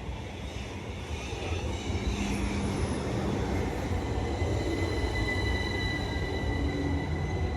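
A train running past on the line, its rumble growing louder over the first couple of seconds, then holding steady with a high, even whine.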